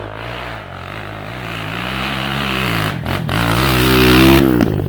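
Enduro dirt bike engine revving under load, its pitch climbing with a brief dip about three seconds in and the sound growing louder towards the end.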